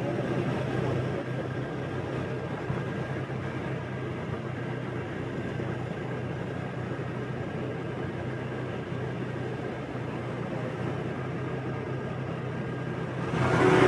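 Motorbike engine running at a steady cruise, a low even hum under road and traffic noise. Near the end a louder rush of sound swells up.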